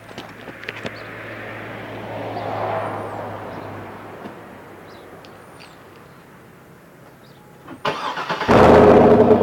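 Chevrolet TrailBlazer SS's 6.0-litre V8 cranking briefly and starting near the end, then running loudly through its Corsa cat-back exhaust. Before the start there is only low, steady background noise.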